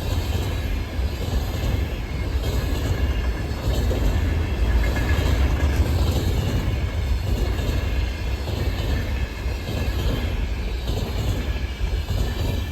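Container freight train rolling past: a steady rumble of wagon wheels on the rails, with a faint high ring from the wheels.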